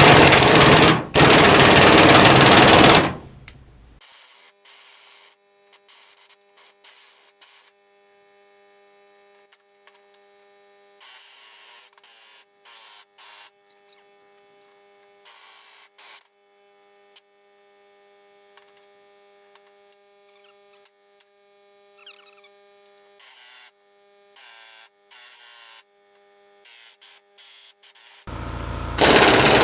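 Pneumatic impact wrench hammering in two loud bursts of about one and two seconds, trying to break loose a stuck, seized threaded part. A long stretch of faint steady hum follows, and the hammering starts again near the end.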